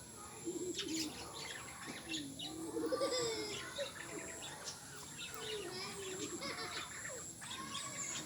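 Pet lovebirds chirping and chattering, a continuous stream of short, varied calls.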